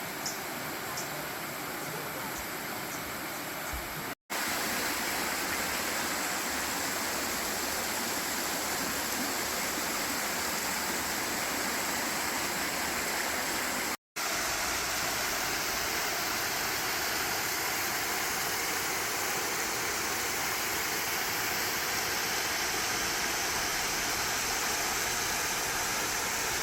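Steady rushing water, an even hiss with no rhythm. It runs through three clips joined by brief silent cuts, about 4 and 14 seconds in, and grows louder after the first cut.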